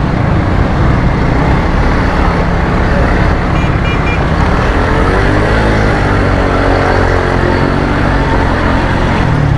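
Motorcycle engine running as it is ridden, under a steady rushing noise. Its pitch rises and then falls back about halfway through.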